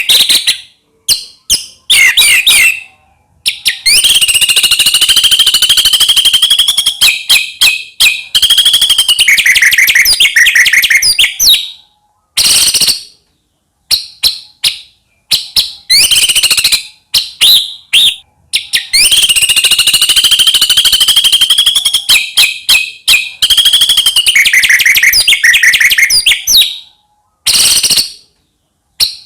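White-rumped shama (murai batu) singing loudly: a long, varied song of quick whistles and rapid trills in phrases with short pauses between. A long fast phrase near the start comes again almost unchanged later on.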